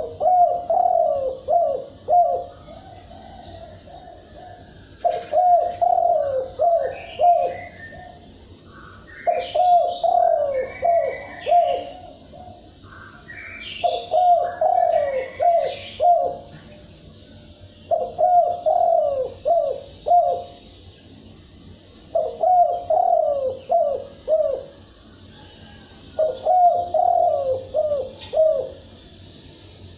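Spotted dove cooing: phrases of several low coo notes, each phrase two to three seconds long, repeated about every four seconds. Fainter, higher chirps from other birds come through in the middle stretch.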